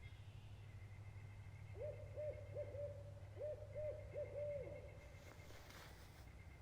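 A bird hooting: a quick series of about six short, soft hoots at one steady pitch, about two seconds in, over faint steady outdoor background.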